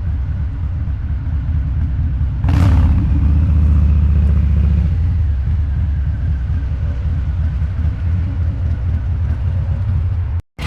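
Harley-Davidson Low Rider's 129-cubic-inch V-twin with a Two Brothers Racing exhaust running under way with a steady low rumble. About two and a half seconds in comes a sudden sharp sound, then the engine runs louder for a couple of seconds under more throttle before easing back. The sound cuts out briefly near the end.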